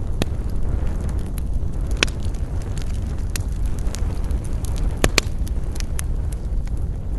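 Wood campfire burning: scattered sharp crackles and pops over a steady low rumble, with the loudest pair of pops just after five seconds.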